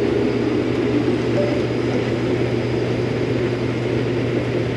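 Combine harvester running steadily while cutting wheat: an even machine noise over a constant low hum.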